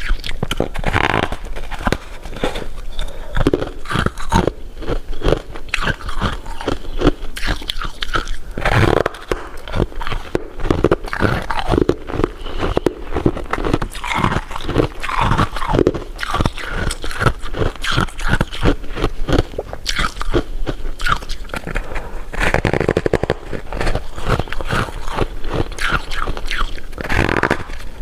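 Close-miked crunching and chewing of candy: irregular sharp crunches come thick and fast throughout, with softer wet chewing between them.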